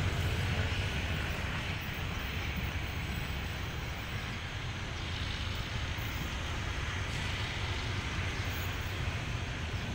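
Steady low rumble of a train moving slowly along the track, heard from on board, a little louder in the first couple of seconds and then even.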